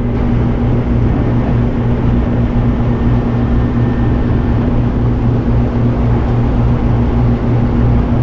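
An MG Midget's engine running steadily at an even cruising speed, with road and wind noise over it.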